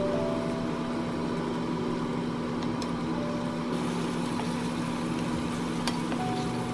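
Gochujang-sauced pork and onions sizzling and bubbling in a nonstick frying pan as they are stirred with a wooden spatula, with a couple of faint clicks of the spatula against the pan.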